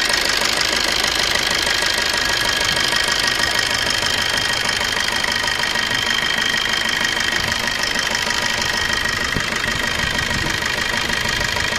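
Maruti Suzuki Swift Dzire's 1.3-litre four-cylinder turbodiesel idling steadily. New copper seating washers on its injectors have cured the compression leak past the injectors, so the leak noise is gone.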